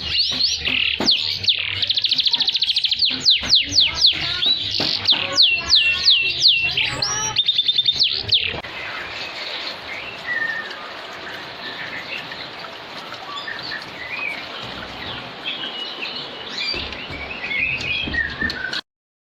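Domestic canary singing vigorously: a loud run of repeated downward-sliding whistled notes with a fast trill about two seconds in. From about eight seconds in it turns to softer, scattered chirps over a steady hiss, and the sound cuts off shortly before the end.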